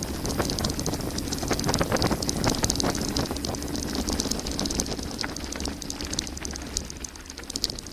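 Mountain bike descending a gravel forest road at speed: tyres crunching over stones and the frame and parts rattling in constant quick knocks. Wind rumbles on the microphone. The rattle eases a little near the end.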